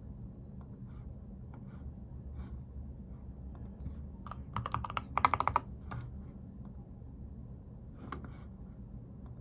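Typing on a computer keyboard: scattered key clicks, a quick run of keystrokes around the middle, then a few more near the end, over a steady low hum.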